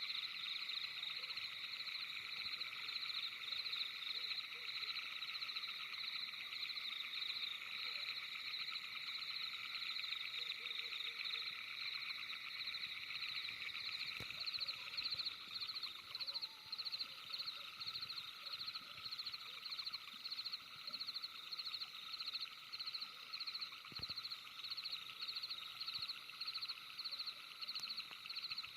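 A dense night chorus of calling animals: a continuous high trilling in several pitch bands, which from about halfway on pulses about twice a second.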